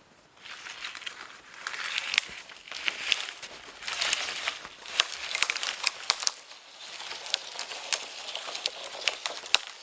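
Dry birch bark and kindling crackling with a quick run of sharp snaps, beginning about half a second in, as the tinder catches fire.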